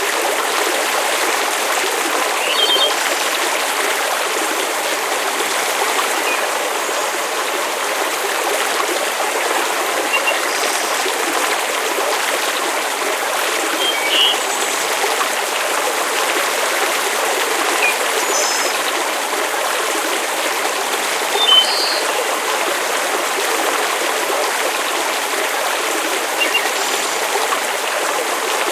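Steady watery hiss of rain or running water, with brief high chirps scattered every few seconds.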